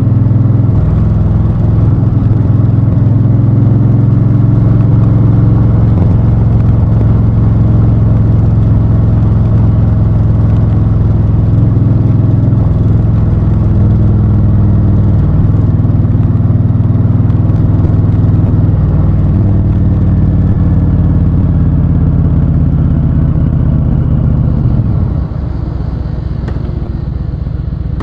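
Honda Fury's 1,312 cc V-twin engine running under way at fairly steady revs, shifting pitch a few times, then dropping to idle near the end.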